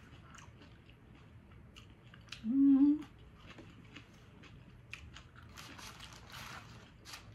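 Close-up mouth sounds of someone chewing a pickled jalapeño slice: wet clicks and soft crunches, with a short closed-mouth hummed "mm" about two and a half seconds in.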